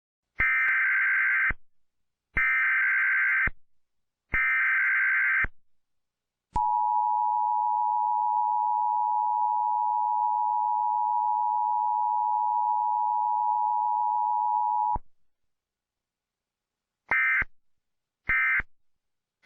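Emergency Alert System tone sequence. Three one-second bursts of warbling data tones are followed by the steady two-tone attention signal for about eight seconds, and then three short data bursts near the end that mark the end of the message.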